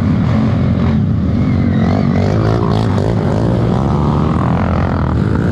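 Trail motorcycle engine running under load, its revs rising and falling.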